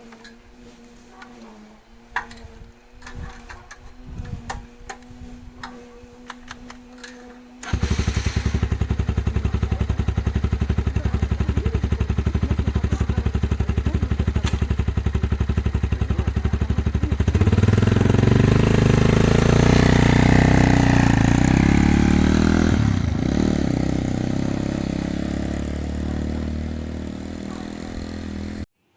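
A few clicks and knocks, then a motorcycle engine suddenly comes in loud about eight seconds in and runs steadily. From about seventeen seconds it gets louder, with its pitch rising and falling as it revs under way.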